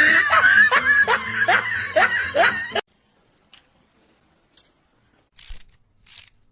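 A person laughing hard in a quick run of short falling peals, about three a second, which cuts off abruptly about three seconds in. After the cut there are only a few faint, short hissing sounds.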